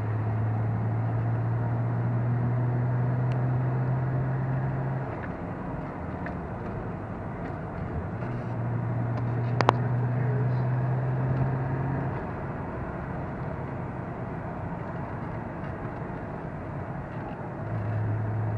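Lotus Carlton's twin-turbo straight-six, heard from inside the car over steady road and tyre noise, running as a steady low drone. The drone drops away about five seconds in, returns a few seconds later, fades again past the middle and comes back near the end. One sharp click sounds about ten seconds in.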